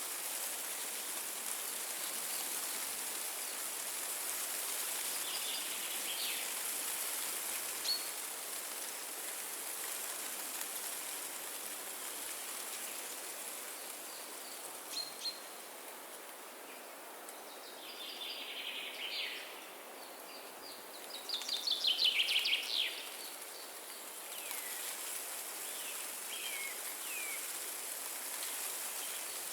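Wind blowing steadily through forest trees, with birds calling on and off. The loudest call is a fast trill of chirps about two-thirds of the way through, and a few short falling calls come near the end.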